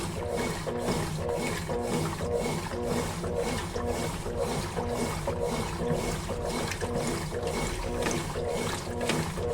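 Consul Facilite 11 kg top-loading washing machine in its wash cycle: the motor drives the wash action back and forth in a steady rhythm of about three strokes a second, churning water and clothes.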